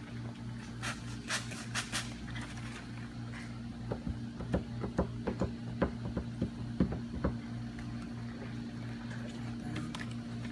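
A steady low electrical hum, with a quick run of about a dozen light clicks and taps in the middle.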